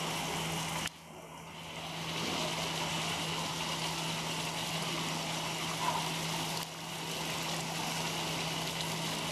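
Steady rush of running water with a low, even hum, as from the pool in a polar bear enclosure. The sound drops away sharply about a second in and again near seven seconds, then builds back up.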